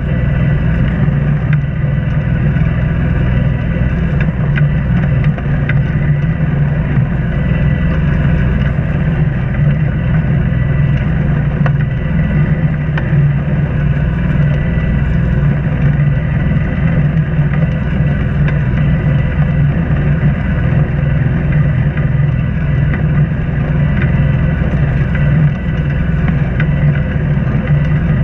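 Inboard auxiliary engine of an Islander 36 sailboat running steadily while motoring, a constant low hum with no change in speed.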